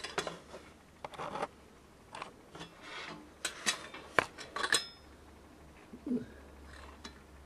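Light clinks, knocks and brief rubbing as small hard objects are handled and set down, scattered through the first few seconds and sparser near the end.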